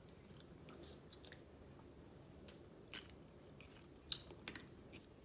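Faint chewing of snow crab meat, with a few soft mouth clicks and smacks, the sharpest about four seconds in.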